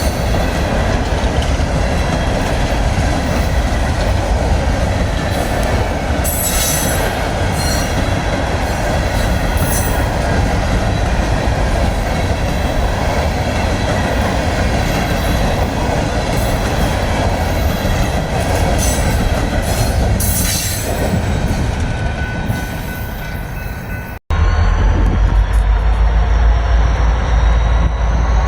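Train cars rolling past on the rails: a steady rumble of wheels with short high squeals from the wheels a few times. About 24 s in, the sound cuts abruptly to a deeper, heavier rumble.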